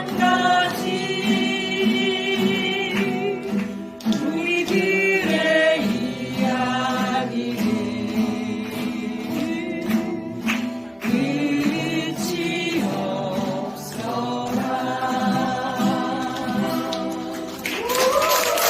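A group of children singing together in unison, accompanied by strummed acoustic guitars.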